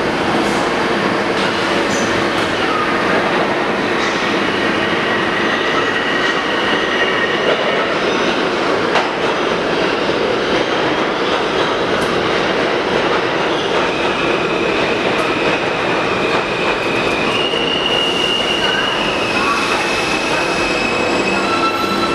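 R46 subway train running on the rails: a steady loud rumble, with thin, high wheel squeals that come and go and are strongest in the second half.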